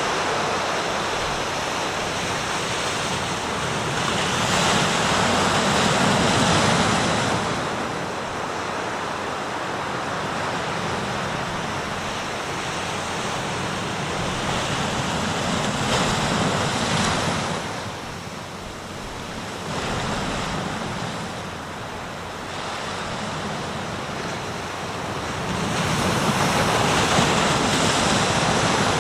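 Sea surf washing onto the shore in a continuous rush. It swells with three louder breaking waves about ten seconds apart and eases between them.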